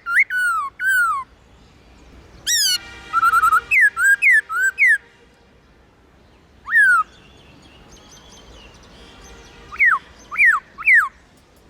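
Black-throated laughingthrush singing loud, clear whistled phrases: groups of down-slurred notes with short pauses between them, and a quick run of short notes around three seconds in.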